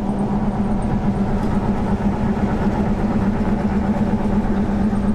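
Car driving on a highway: steady engine and road noise with a constant low hum.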